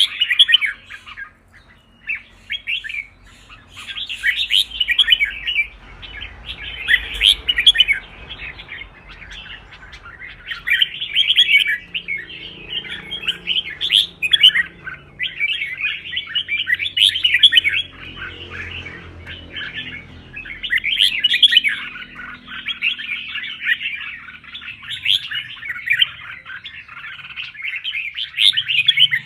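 Red-whiskered bulbul singing in a fast, chattering run of bright whistled phrases, one after another, with only a brief pause about two seconds in.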